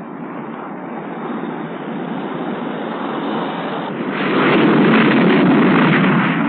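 A-4D Skyhawk's jet engine running on the carrier catapult, its noise building and growing louder about four seconds in as the engine goes up to launch power.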